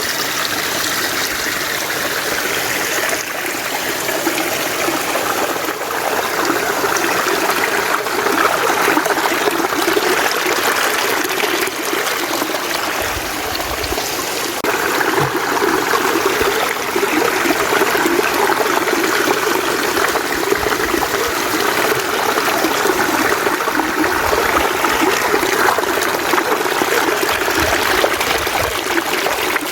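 Mountain stream running steadily over rocks, a continuous rushing and trickling of water. Brief low rumbles come about halfway through and again near the end.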